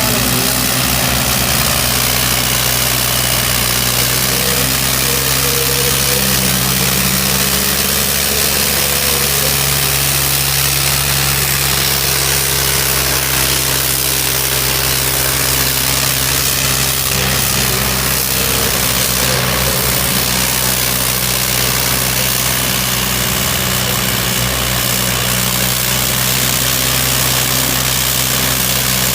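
Diesel tractor engine running steadily at a constant level, with a steady low drone.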